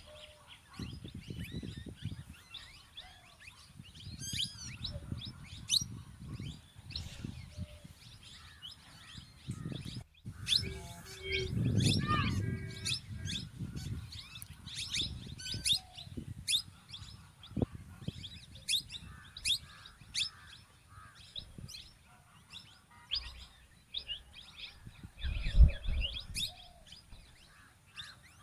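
Plum-headed parakeets calling: many short, high chirps, one after another, over a low rumble, with a dull thump near the end.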